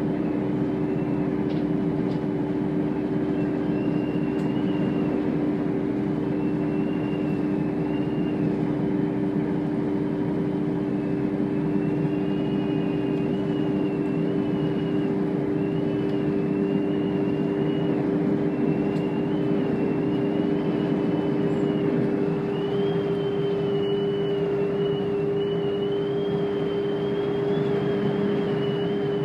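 Chiltern Railways diesel train running steadily, with a constant low hum and a faint higher whine that wavers and rises slightly near the end over the rumble of the run.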